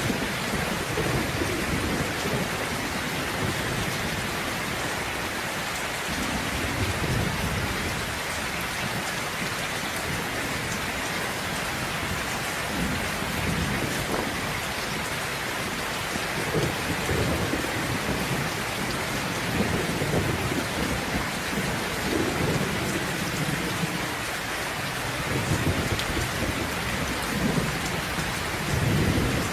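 Steady heavy rain falling, with low thunder rumbling again and again underneath, swelling several times and loudest near the end.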